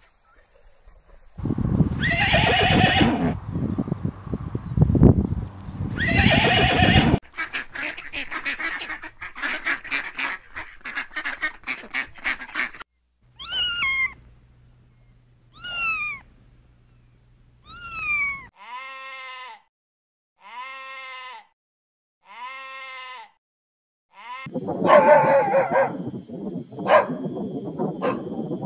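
A run of separate farm-animal call clips, one after another with abrupt cuts. The sequence goes: two loud drawn-out calls, a quick run of repeated short calls, three falling calls, four short calls, and then a loud noisy stretch of calls near the end.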